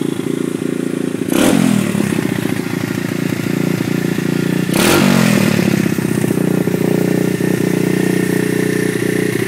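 Custom Honda CRF50 pit bike engine running steadily, with two short throttle blips, about a second and a half in and again near five seconds.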